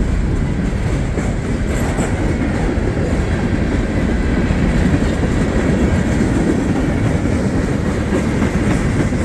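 Cars of a Norfolk Southern mixed freight train rolling past: a steady heavy rumble of wheels on rail, with the clickety-clack of wheels over the rail joints.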